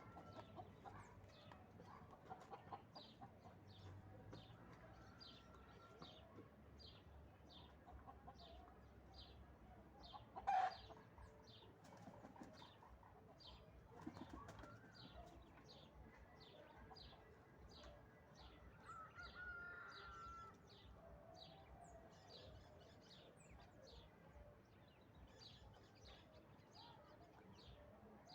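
Faint farmyard ambience: a short high chirp repeats a little over once a second throughout, with faint poultry calls and one brief loud call or flap about ten seconds in.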